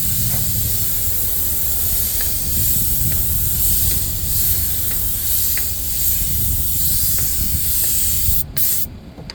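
Spray gun hissing steadily as it sprays a colour base coat onto a car seat, with a low rumble underneath. Near the end it stops, gives one short burst, then cuts off.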